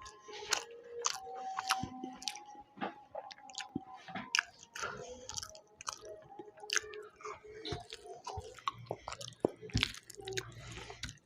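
Close-up eating sounds: a person chewing and biting food, with many short, irregular crunching clicks.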